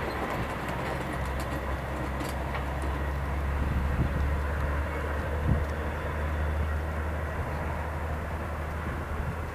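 Train rumbling steadily, with wheel and rail noise and a couple of faint knocks about four and five and a half seconds in; the sound eases off near the end. No horn is sounding.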